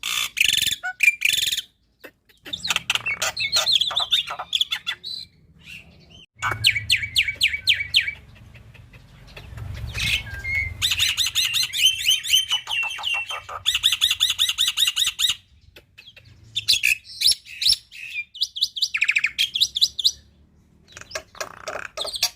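Black-winged starling (jalak putih) singing: bursts of rapid, evenly repeated chattering notes mixed with whistled phrases, broken by short pauses.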